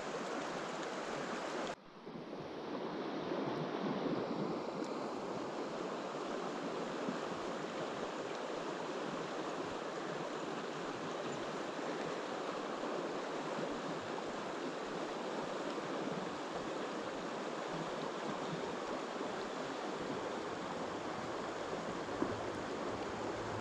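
Steady rush of flowing river water. The sound drops out briefly about two seconds in, then returns unchanged.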